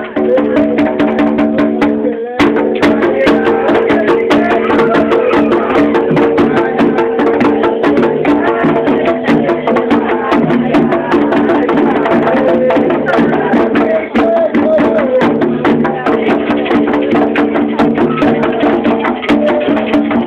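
Ritual drumming for Xangô: hand drums and a clacking wood-block-like percussion beat a fast, dense rhythm over steady held tones, with a brief break about two seconds in.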